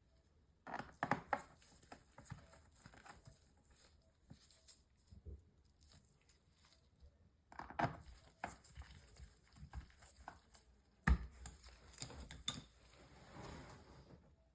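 Hands working on a laptop during a battery replacement: scattered light clicks, taps and rustles. Sharper clicks come about a second in, near eight seconds and near eleven seconds.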